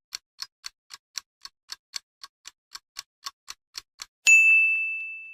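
Countdown clock sound effect: a steady ticking, about three or four ticks a second, for about four seconds, then a single bell-like ding that rings out and fades, marking that the answer time is up.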